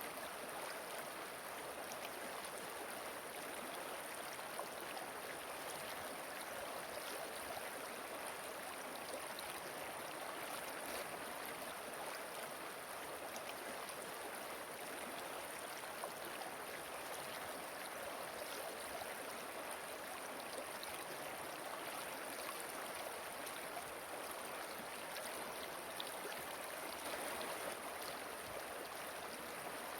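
Flowing water from a river or stream: an even, unbroken rush with faint scattered splashes.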